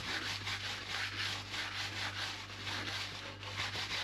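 Cloth wiping a motorcycle wheel rim in quick back-and-forth strokes, about three or four a second: degreasing the spot where a stick-on balance weight will go so it sticks well.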